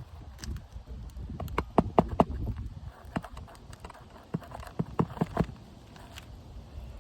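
Knocks and taps from work on a shingle roof: a quick run of three sharp knocks about two seconds in and another cluster around five seconds, over a low steady rumble.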